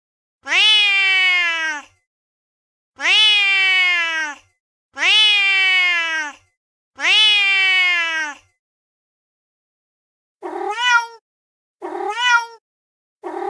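Recorded cat sounds played from a phone's cat-sound app. First come four near-identical long, drawn-out angry cat meows, each falling in pitch. After a pause of about two seconds come three short meows that rise and then fall.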